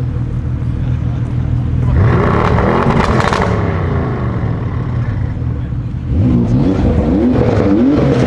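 Lamborghini Huracan STO's naturally aspirated V10 accelerating hard, its pitch climbing sharply about two seconds in and then falling away. Near the end it pulls again through several quick upshifts, the pitch rising and dropping back with each shift.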